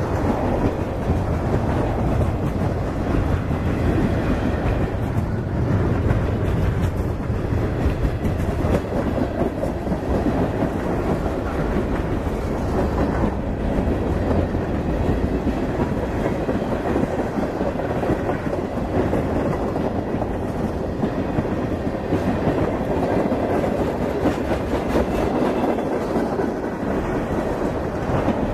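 Freight train of tank cars, boxcars and covered hoppers rolling past close by: a loud, steady rumble of steel wheels on rail with a running clatter of wheels over the track.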